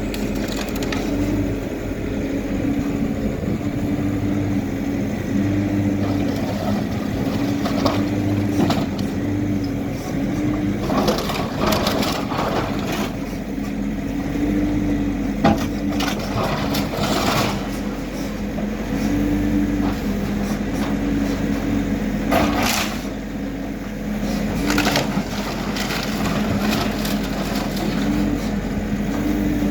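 A backhoe loader's diesel engine running under load, its pitch rising and falling in repeated surges as it works, over a string of cracks and crunches of building debris being broken apart during demolition.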